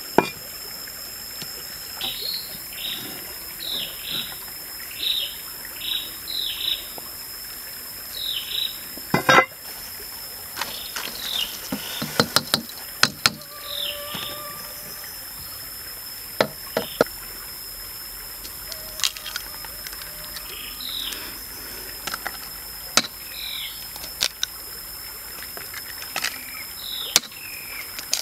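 Repeated short, falling bird chirps in bursts over a steady high insect drone, with scattered sharp clicks and knocks of cookware being handled; the loudest knock comes about nine seconds in.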